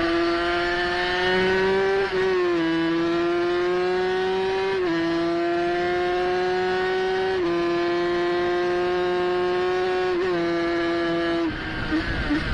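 350 cc racing motorcycle engine at high revs, heard onboard. Its note climbs steadily and drops sharply four times, about every two and a half seconds, at quick upshifts. Near the end the engine note falls away and music comes in.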